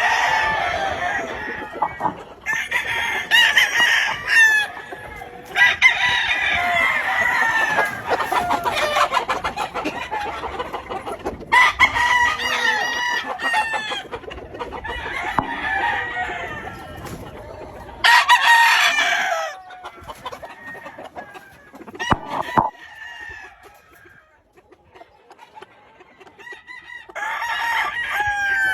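Gamefowl roosters crowing again and again, several birds calling one after another and over each other, with clucking between the crows. The crowing thins out about two-thirds of the way through and picks up again near the end.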